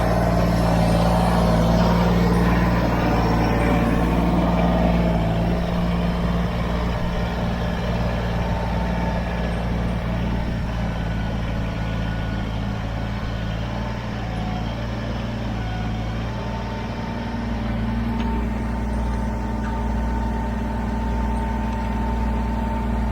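Kubota BX23S tractor's small three-cylinder diesel engine running steadily, with a little more clatter in the first few seconds.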